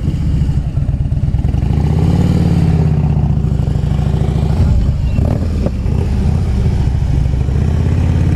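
Harley-Davidson touring motorcycle's V-twin engine running at low speed close by. Its pitch rises and falls with small throttle changes, about two seconds in and again about five seconds in.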